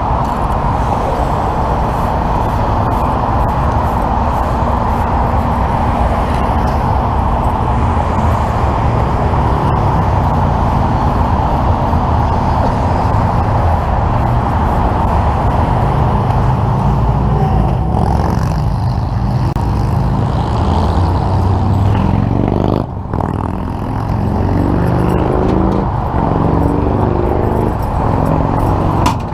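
Steady road noise from freeway traffic and running vehicle engines. In the second half an engine's pitch rises and falls several times.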